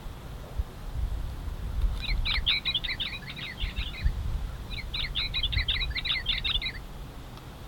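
A songbird singing two quick phrases of rapid, repeated high chirping notes, one starting about two seconds in and the second about a second after the first ends. A low, uneven rumble runs underneath.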